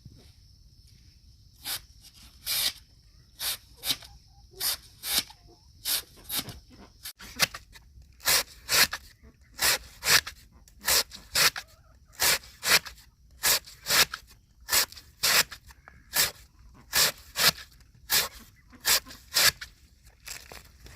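A long run of short rasping strokes, like a hand tool scraping or sawing, uneven at first and then steady at about one to two strokes a second from about seven seconds in.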